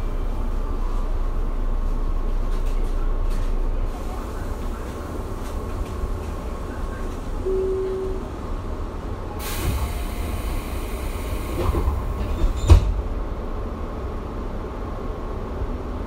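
Tobu 9050-series electric train standing at an underground platform, its onboard equipment giving a steady low hum that drops in level about four seconds in. A short beep sounds about halfway, then a hiss of about three seconds and a single clunk near its end.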